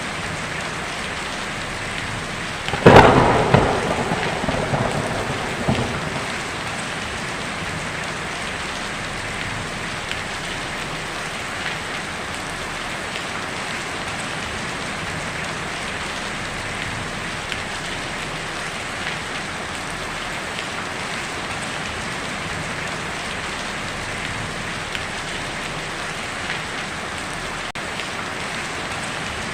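Heavy rain drumming steadily on a tin roof. About three seconds in, a sharp thunderclap cracks and rumbles away over the next few seconds.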